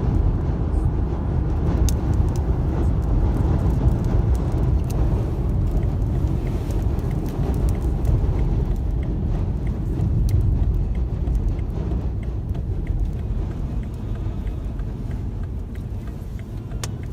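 Storm wind buffeting a car on a highway, a dense low rumble with scattered sharp taps against the car, easing slightly near the end.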